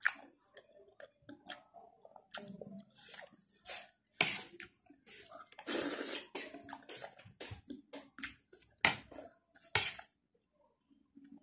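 A person chewing a mouthful of rice close to the microphone, with irregular short mouth clicks and a few louder clicks.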